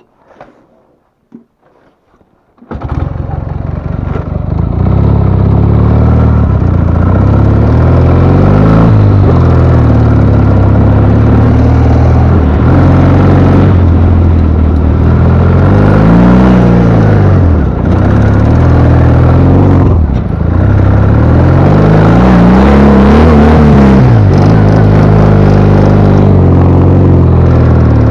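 Ural motorcycle's air-cooled flat-twin engine running loud, cutting in abruptly about three seconds in after a quiet stretch, then rising and falling in pitch several times as it is revved.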